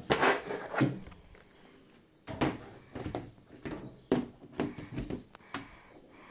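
LG washing machine on an intensive 60 °C Eco cotton wash, its drum tumbling the wet laundry: irregular swishes and thuds as the load drops, in two runs with a pause of about a second and a half between them.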